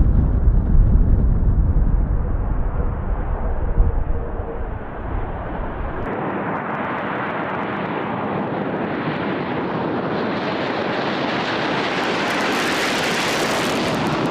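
Jet aircraft noise: a heavy low rumble that gives way about six seconds in to a hissing jet noise growing steadily louder and higher, then cutting off suddenly.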